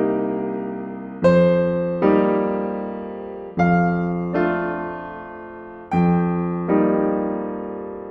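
Slow, gentle solo piano music: chords struck about every second or so, each ringing out and fading before the next.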